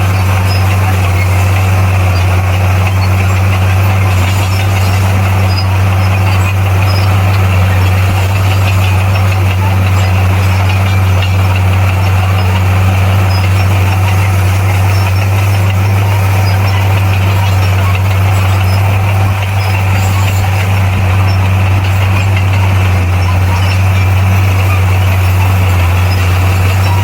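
Bulldozer's diesel engine running at a steady speed, a loud, even low drone that does not change.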